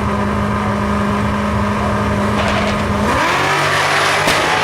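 Drag-race cars at the starting line, including a twin-turbo Shelby GT500 Mustang: engines held at steady revs, then about three seconds in the revs climb and the engine noise swells loud and rough as the cars launch. A single sharp crack comes near the end.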